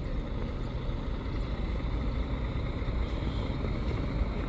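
Steady low rumble of a coach bus's engine and road noise, heard from inside the passenger cabin.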